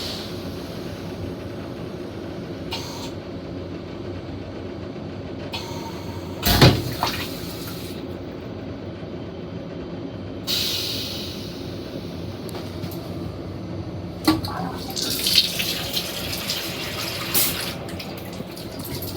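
Water running in short spells from the washbasin tap in an M7 commuter railcar's restroom, over the steady hum of the moving train, with a single thump about six and a half seconds in.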